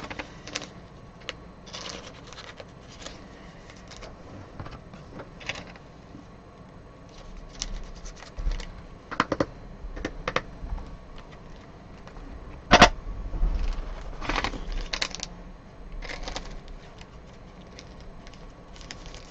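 Trading cards and pack wrappers being handled and sorted: irregular rustling and light clicks, with one sharper snap about two-thirds of the way through.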